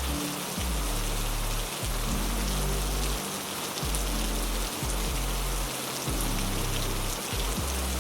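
Heavy rain falling steadily, a dense even hiss with scattered drop ticks. Underneath it runs a deep low rumble that cuts in and out every second or so.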